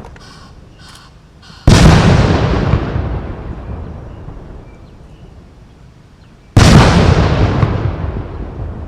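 Ceremonial gun salute: two artillery blank rounds fired about five seconds apart, each a sudden boom that dies away over a couple of seconds.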